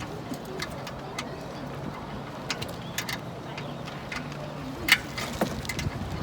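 Scattered light clicks and taps of a wrench and hands working at the oil drain plug under a car, irregular rather than a steady ratchet rhythm, with a sharper knock about five seconds in, over a steady low hum.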